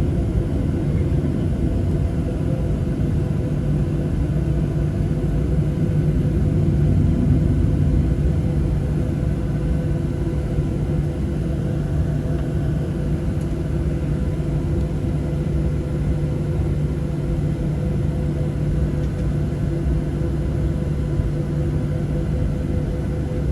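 Cabin noise inside a Boeing 737-700: the steady rumble of its CFM56-7B turbofan engines and the airflow, with a steady hum over it.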